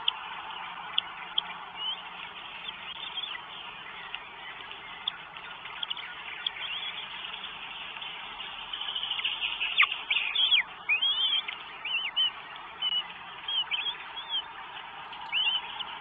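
Birds giving short, high chirping calls over a steady background hiss. The calls are sparse at first and come in a quick, louder run from about halfway through.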